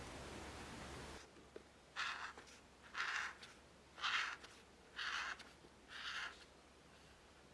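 Five even strokes of a drawing or painting tool on paper, about one a second, each a short hissing rasp. A steady hiss cuts off about a second in.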